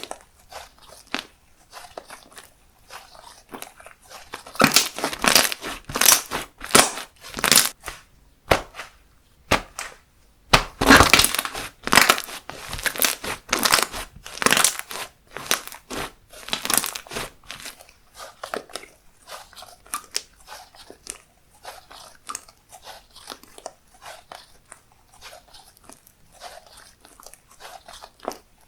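Slime being worked by hand, giving crisp crackling and crunching noises. They come in bursts, loudest from about four to eight seconds in and again from about ten to seventeen seconds, with softer crackles in between and toward the end.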